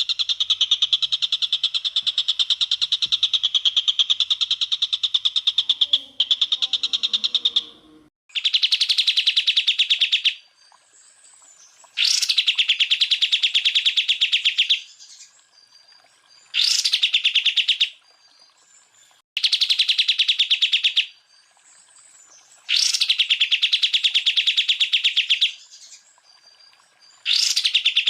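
Green leafbird (cucak ijo) singing rapid, harsh trilled bursts: one long burst of about eight seconds, then about six shorter bursts with brief pauses between them.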